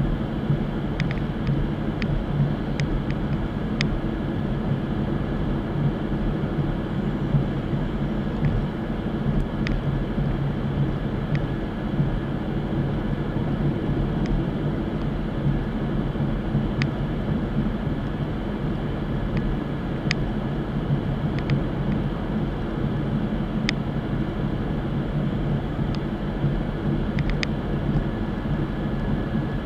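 Chevrolet Camaro driving at a steady cruising speed: a continuous drone of engine and road noise, with scattered short ticks.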